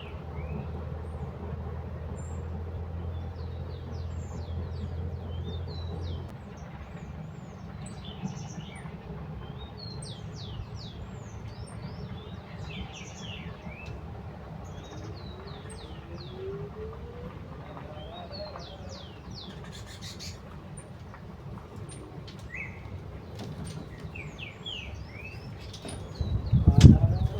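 Small birds chirping repeatedly in short, quick notes over a steady low hum that stops about six seconds in. A loud low rumble comes in near the end.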